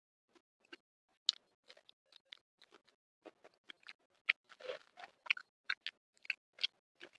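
Close-miked chewing of crunchy food, a green vegetable and crispy flour-fried fish, with many short, sharp, irregular crunches and a longer crackly stretch just before five seconds in.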